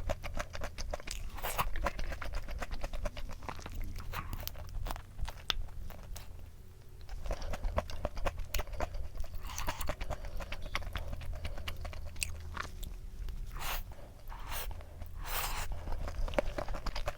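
Close-miked chewing of crunchy food: a steady run of crisp crunches with a few louder bites.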